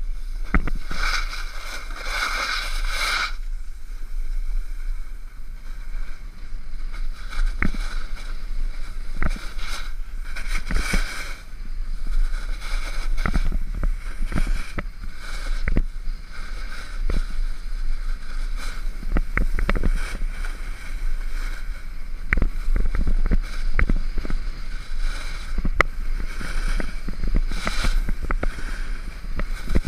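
Water sloshing and splashing around a boat, with repeated sharp knocks and a steady wind rumble on the microphone.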